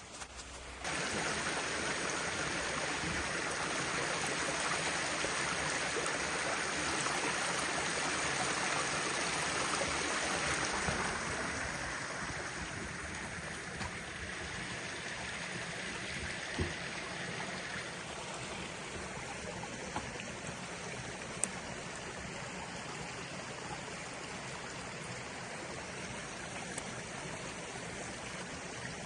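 Running water of a stream, a steady rush that comes in suddenly about a second in and eases slightly around the middle.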